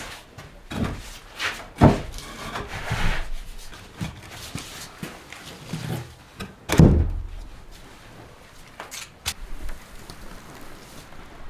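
Wooden knocks and rubbing: wooden objects or boards being handled and scraped, with several thumps, the loudest about seven seconds in.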